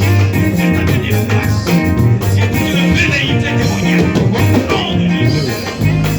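Church band music with a steady beat: bass and guitar over percussion.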